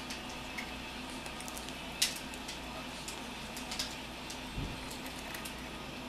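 Scattered sharp clicks and taps, the loudest about two seconds in, with a dull thud later, over a steady low hum: a cockatoo's beak working a hard walnut shell.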